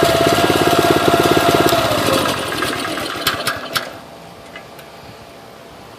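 4 horsepower Subaru single-cylinder four-stroke engine on a minibike running at idle with an even firing beat. The engine slows and dies away about three seconds in, with a few sharp clicks just as it stops.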